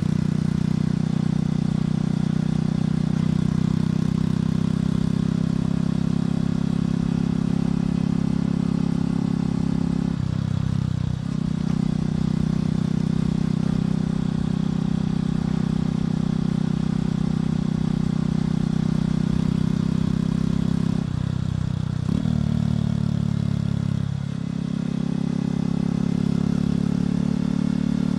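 Motorcycle engine and exhaust running steadily while riding. The engine note breaks and changes pitch briefly about ten seconds in, and twice more after twenty seconds, at gear changes.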